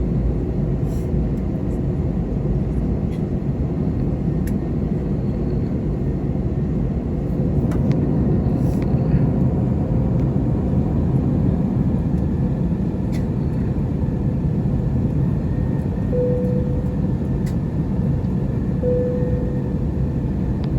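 Steady rumble of an Airbus A321-211's CFM56 engines and cabin air at low power, heard inside the passenger cabin, with two short faint tones near the end.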